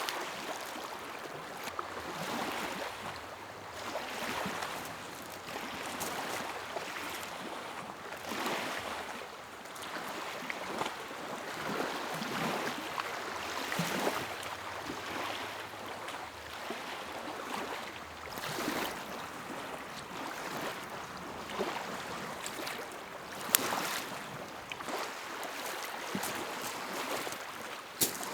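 Small lake waves lapping at the shore in repeated soft washes that swell and ease every second or two, with two sharp clicks in the last few seconds.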